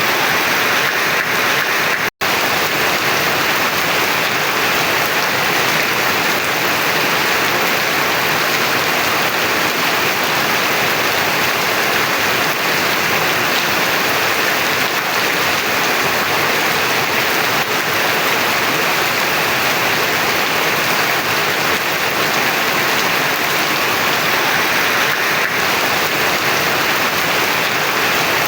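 Heavy rain pouring steadily, a dense unbroken hiss of rainfall. The sound cuts out completely for a split second about two seconds in.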